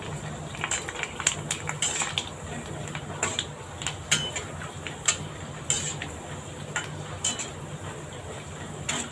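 A metal utensil clinks and scrapes against the pan while pani puris fry and puff up in hot oil. The clicks and crackles come at an irregular pace.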